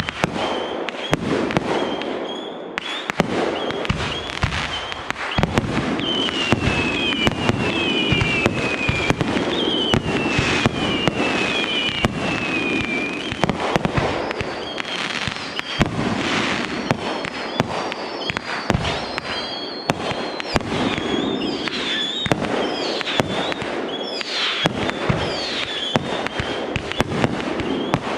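Fireworks display going off without a break: a dense run of bangs and crackles, with repeated falling whistles through the middle and again near the end.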